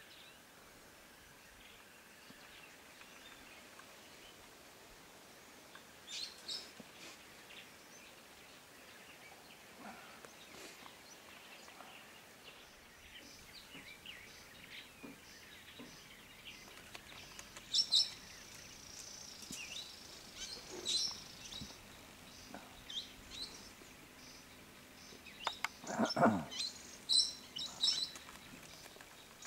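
Wild birds chirping: scattered short, high-pitched calls over a steady background hiss, coming thicker near the end, with one louder falling sound among them.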